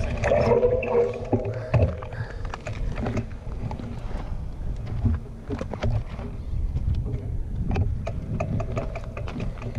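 Wind rumbling on the microphone, with scattered clicks and knocks from a mountain bike being handled.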